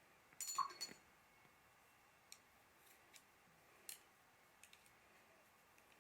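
Small hard objects clinking on a table, as when watercolour painting tools are handled: a brief clink with a short ring about half a second in, then a few faint scattered ticks.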